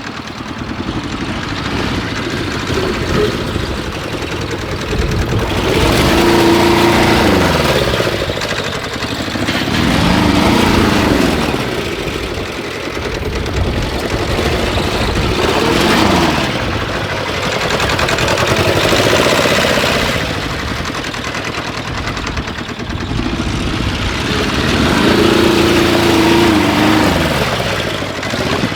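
Engine running and revving, its pitch climbing and dropping back about five times.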